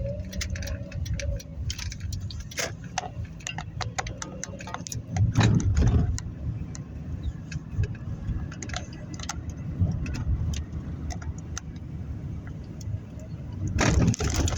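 Car being driven slowly, heard from inside the cabin: a steady low rumble of engine and tyres with frequent irregular light clicks and rattles. It swells louder briefly about five and a half seconds in and again near the end.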